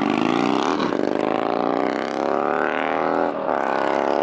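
Car engine accelerating hard, its pitch climbing, dropping sharply at a gear change about a second in and again near the end, then climbing again.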